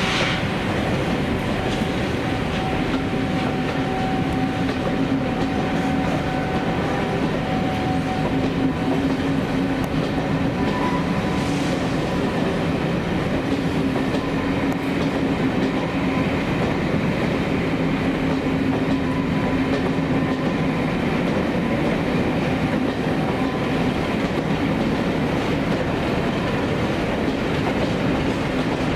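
A train rolling by at a steady pace, its wheels clattering over the rail joints, with a low steady hum underneath.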